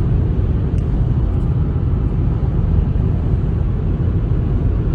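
Steady low road and wind rumble of a car driving at highway speed, about 77 mph, heard from inside the car.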